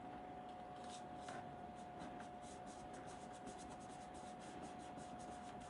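Paper being worked by hand: a quick run of soft scratchy rubbing strokes as glued card panels are pressed and smoothed down. A faint steady hum runs underneath.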